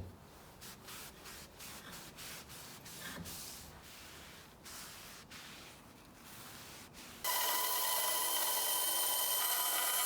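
Soft, irregular rubbing strokes on a workpiece. About seven seconds in, a loud, steady hiss with a high whine starts abruptly and keeps going.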